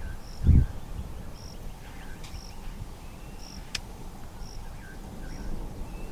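A short, high chirp repeating about once a second, from a small calling creature in the bush, over a steady low rumble. There is one low thump about half a second in.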